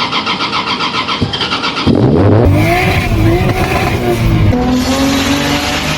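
Toyota Cressida MX83's engine being cranked by the starter with a fast, even pulsing, catching about two seconds in and then revved up and down.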